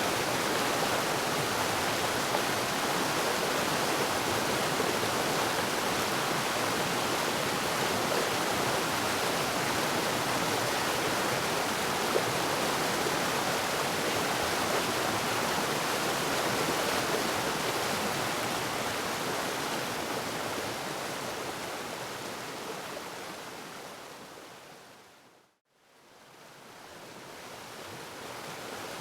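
Waterfall rushing in a steady, dense hiss of falling water. About 25 seconds in it fades out to nothing and then fades back in.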